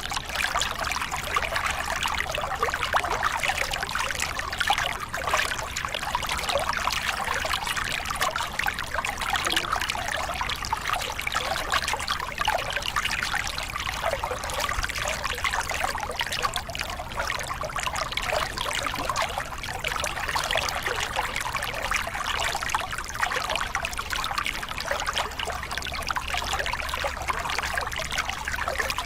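A small cascade on a forest river: water splashing and pouring over rocks in a steady, even rush, with the most energy in the middle and upper range and no breaks.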